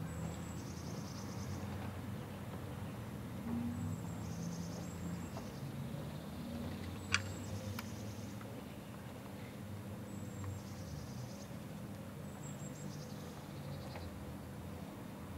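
Outdoor ambience: a small songbird repeats a short, high song every few seconds over a low background rumble, with one sharp click about seven seconds in.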